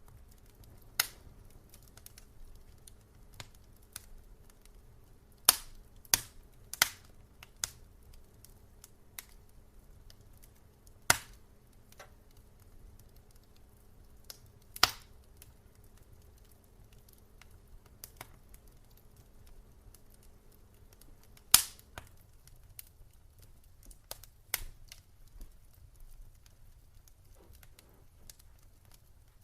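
Wood fire in a fireplace crackling, with irregular sharp pops a second or several apart over a low rumble; the loudest pop comes about three-quarters of the way through. A faint steady hum underneath stops at about the same moment.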